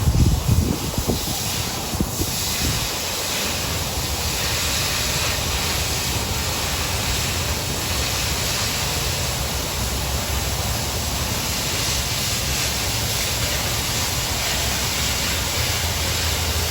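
Oxy-fuel cutting torch with the cutting-oxygen lever held down, hissing steadily as it cuts through quarter-inch steel plate. There is a brief low rumbling in the first second as the cut gets going.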